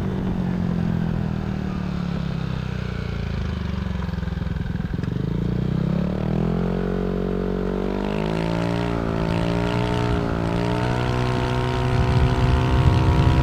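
Yamaha Aerox 155 scooter's single-cylinder engine running through a Villan SR1 aftermarket exhaust while riding. The engine note falls for about five seconds as it slows, rises again from about six seconds in, then holds with small rises and falls.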